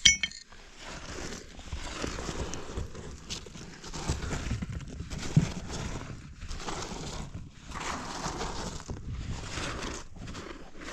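Digging in a cave passage: irregular scraping and scuffing of rock and muddy soil, with a sharp clink right at the start.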